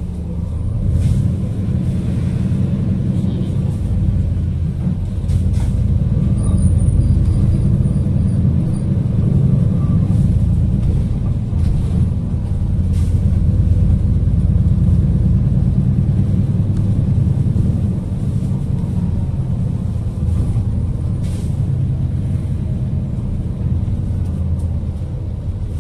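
City bus driving, heard from inside the passenger cabin: a steady low rumble of engine and road noise, with a few faint clicks and rattles.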